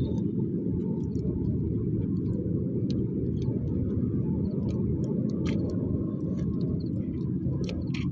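Wood fire burning, with scattered sharp crackles over a steady low rumble.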